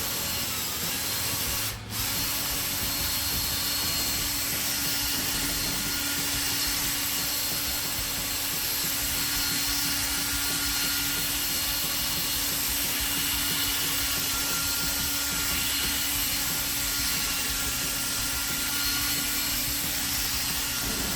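Electric drill running steadily with a sanding disc against a plastic headlight lens, cutting away the cloudy, sun-damaged surface. It is a steady motor hum with sanding hiss, with a brief dip about two seconds in.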